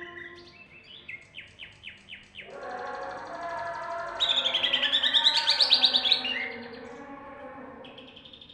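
Green leafbird (cucak ijo) singing. It starts with a row of short downward-sliding notes at about two a second, then breaks into a fuller warble and, about four seconds in, a loud, fast, high trill: the rolling, rapid-fire delivery that keepers call 'roll' and 'tembak'. The song eases off near the end.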